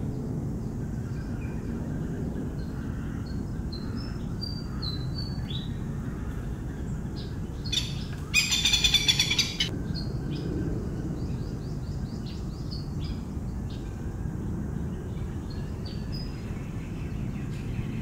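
Birds chirping in short high calls scattered throughout, with one loud harsh call lasting about a second and a half roughly eight seconds in, over a steady low background rumble.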